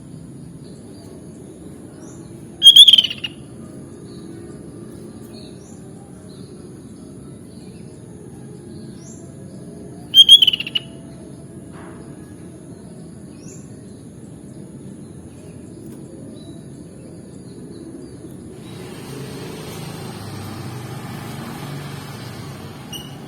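Sooty-headed bulbul calling: two loud, short calls about seven seconds apart, with faint chirps between them over a steady low background noise.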